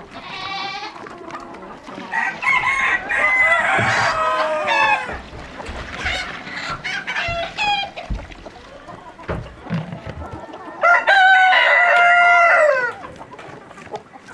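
Roosters crowing, two long crows that hold and then fall away at the end, the second near the end, with chickens clucking in between.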